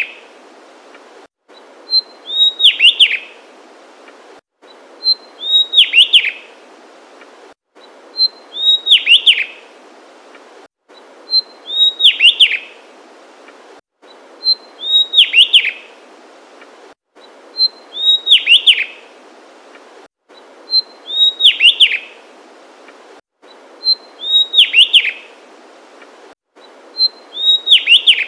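Javan tesia singing: the same short phrase repeated about every three seconds, a high note followed by a quick tumbling run of falling notes. The identical phrases and brief dead-silent gaps in the background hiss between them point to a looped recording.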